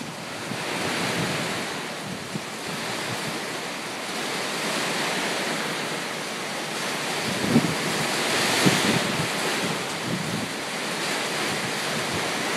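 Hurricane Irene's wind and heavy rain: a steady rushing noise that swells and eases, with a couple of brief thumps of wind buffeting the microphone midway through.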